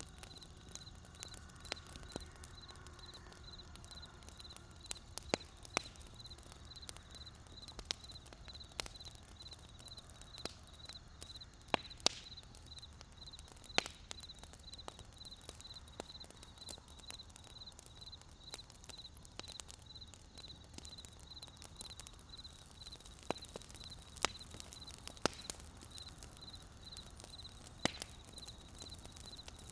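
Wood campfire crackling: irregular sharp pops and snaps over a steady low rumble, with a few louder cracks about twelve and fourteen seconds in. A faint high-pitched chirp pulses evenly, about twice a second, in the background.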